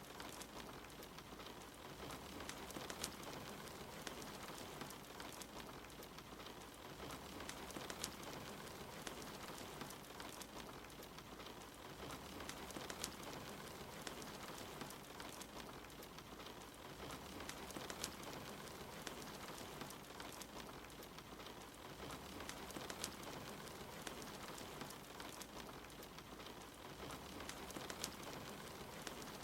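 Soft, steady rain together with a crackling wood fire in a fireplace, with scattered sharp pops from the fire every second or two.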